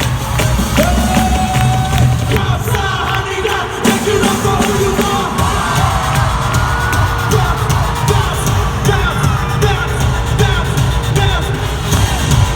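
Live band playing loud pop music with a steady beat and a heavy bass, with singing and a crowd cheering.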